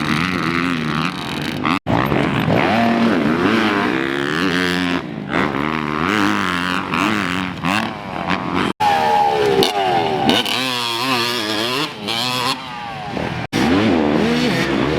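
Dirt bike engines revving up and down hard as they ride, pitch climbing and dropping again and again with gear changes. The sound breaks off and changes abruptly three times, like separate short clips joined together.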